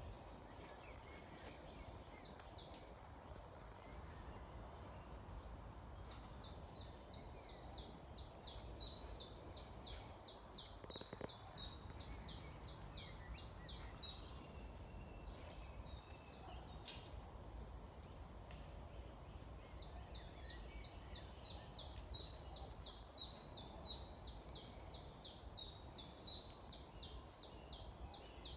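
A small songbird singing long runs of quick, high, repeated notes, about two or three a second, over a steady low background hum of outdoor noise.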